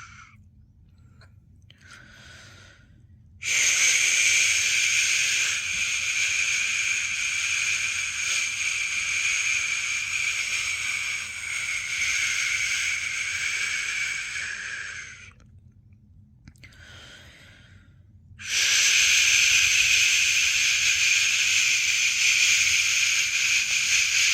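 Long human 'shh' shushing sounds for soothing a newborn to sleep, as in the shush-pat method. Each is held for about eleven seconds, with a pause of about three seconds between them that holds only a faint short shush.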